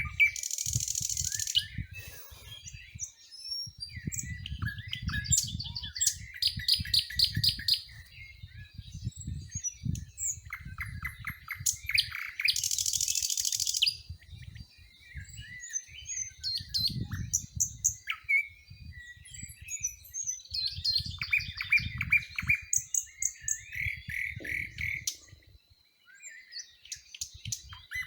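Several songbirds singing and chirping together, with overlapping trills, short whistles and buzzy calls, over an uneven low rumble.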